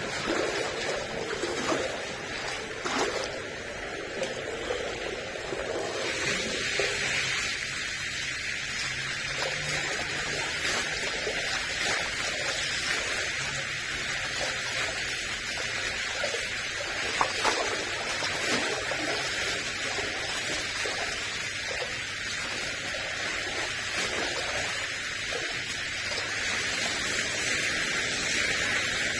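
Steady rush of running water, turning brighter and hissier about six seconds in.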